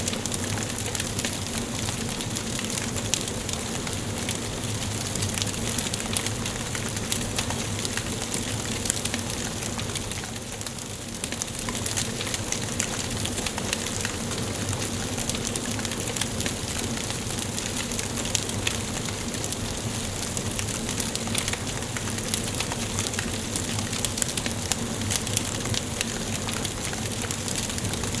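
Wood fire burning in a fireplace, crackling and popping steadily over a constant hiss, with a brief lull about ten seconds in.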